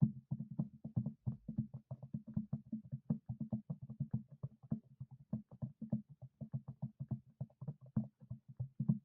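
Rapid, irregular knocking or thumping, several strikes a second, over a low steady hum.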